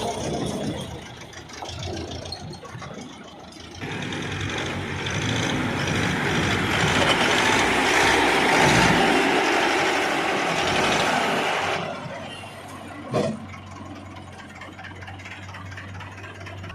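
Excavator's diesel engine running, rising to a louder, harder run under load for several seconds in the middle and then dropping back to a steady lower hum. A single sharp knock about thirteen seconds in.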